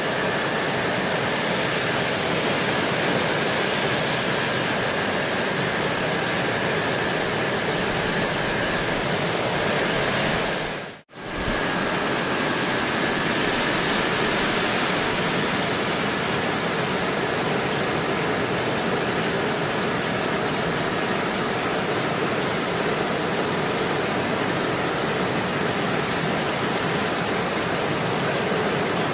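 Gentle rain falling steadily, an even hiss of many drops. About eleven seconds in it fades out to near silence for a moment and comes straight back.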